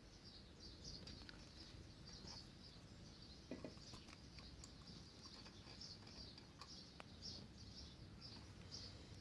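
Near silence with a small bird chirping faintly and repeatedly, about two to three short high chirps a second, and a few light clicks.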